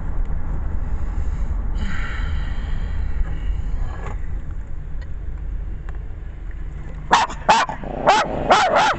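A dog barking in quick, sharp, loud barks, two to three a second, starting about seven seconds in, over a steady low rumble. A brief high whine comes about two seconds in.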